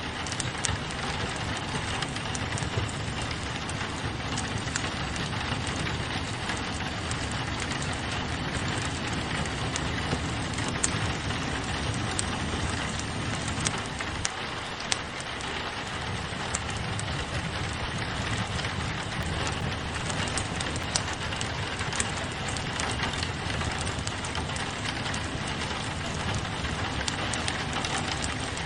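Steady rain falling on a window mixed with a wood fire crackling, with scattered sharp pops and clicks.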